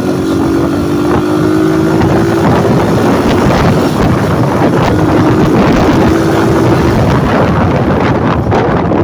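Motorcycle engine running under way, its pitch rising slightly over the first couple of seconds, with heavy wind buffeting the microphone.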